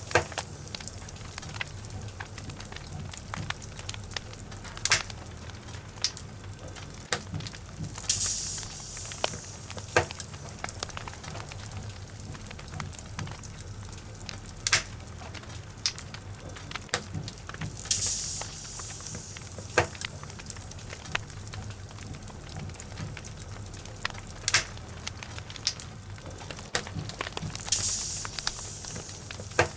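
Wood logs burning in a fireplace: irregular crackles and sharp pops over the low, steady rumble of the flames, with a soft hiss swelling three times, about ten seconds apart.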